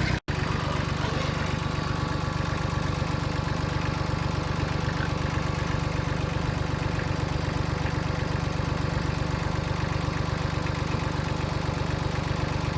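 Small farm tractor engine running steadily as it drives along, an even low drone, with a split-second break just after the start.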